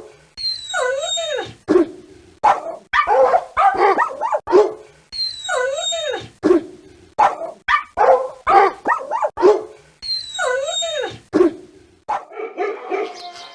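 A dog whimpering with a cry that bends up and down, then barking in a quick run of short barks. The same sequence repeats three times, about every five seconds. A different sound takes over near the end.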